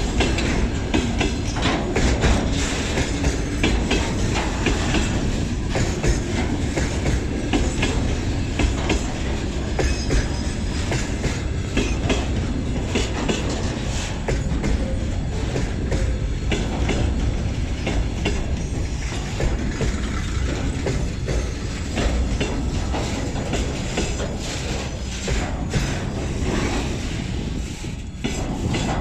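Freight train wagons rolling past, with a steady rumble and wheels clattering over the rail joints.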